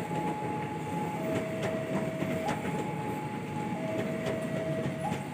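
Electric commuter train passing close by, a steady rush of wheels on rail with scattered clicks. Over it a level-crossing warning alarm sounds, alternating between a higher and a lower tone about every second and a quarter.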